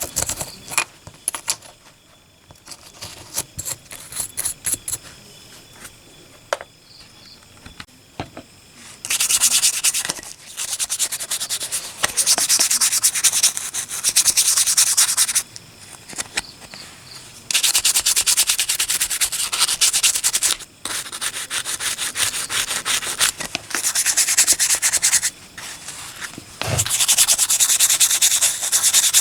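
Sanding a die-cast metal toy car: spells of fast, harsh rubbing strokes, each a few seconds long, with short breaks between them. The first several seconds hold only quieter scraping and light clicks.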